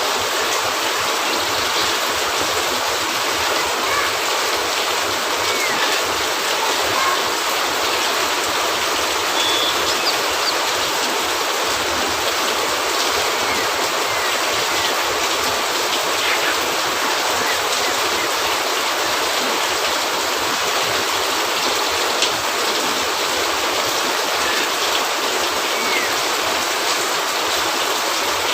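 Steady rain hiss on a cabin roof, with a few faint pops and crackles from a wood fire, one sharper pop about 22 seconds in.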